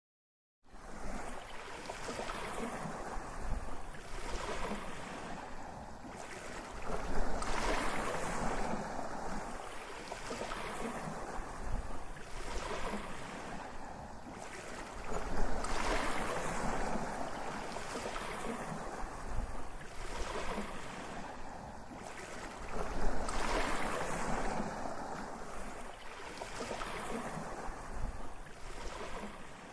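Sea waves breaking and washing on a shore: a continuous rushing wash that swells and ebbs, with bigger breakers about every eight seconds.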